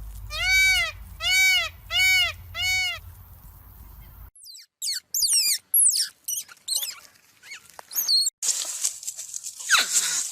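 A series of animal calls. First come four evenly spaced calls, each rising then falling in pitch. These are followed by rapid high chirps and then a noisier stretch of falling cries.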